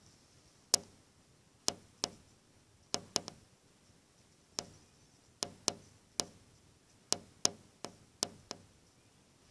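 A series of sharp taps or clicks, about fifteen at irregular intervals, some in quick pairs, each with a brief ring.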